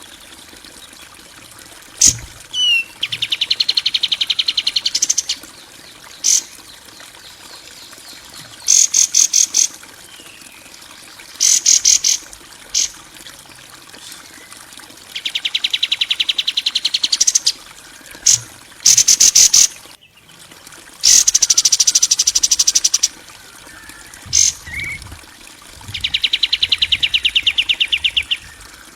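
Harsh, buzzy rattling trills from a songbird-training (masteran) recording: fast, even pulse trains lasting one to two and a half seconds, about a dozen of them, with short sharp chirps in between.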